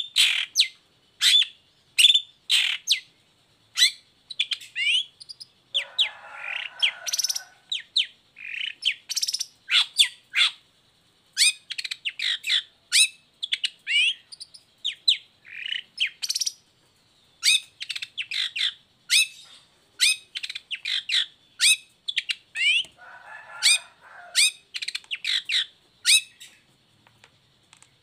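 Long-tailed shrike (cendet) singing energetically: a fast, unbroken run of short, sharp high notes, twice broken by a harsher rasping call, once about six seconds in and once near the end.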